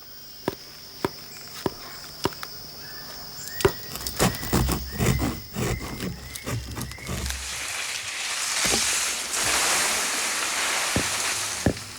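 A blade chopping into a palm trunk in repeated sharp strokes, roughly two a second, over a steady high insect trill. After about seven seconds the chopping gives way to a few seconds of loud rustling, then the strokes start again near the end.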